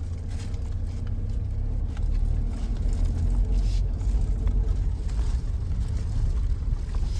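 Suzuki Jimny being driven off-road over a steep, rough track: a steady low engine and drivetrain rumble.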